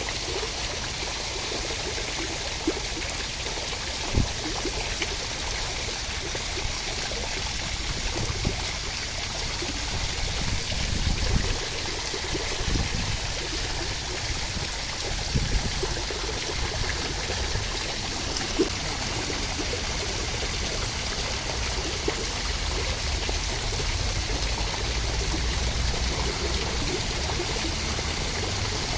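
Steady rain falling, an even rushing hiss of water, with a few soft thumps now and then.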